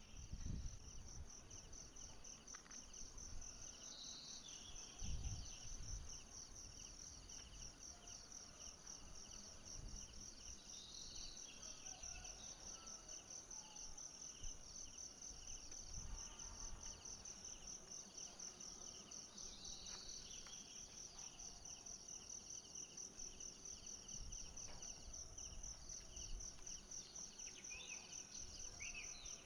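Insects chirping steadily in a fast, high, pulsing trill, with a few short chirps over it and a couple of low thumps near the start.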